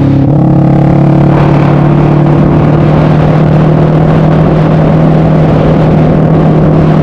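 Yamaha MX King motorcycle engine, a single-cylinder four-stroke enlarged to 300cc, running loud at a steady engine speed with an even, unchanging drone.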